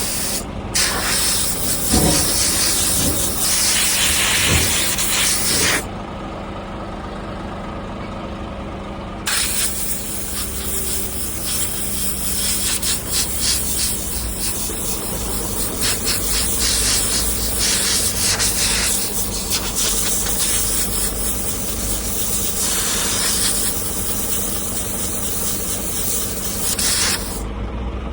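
Compressed air hissing in two long blasts, with a pause of about three seconds between them, as a truck's cabin air filter is blown clean. A truck engine idles steadily underneath.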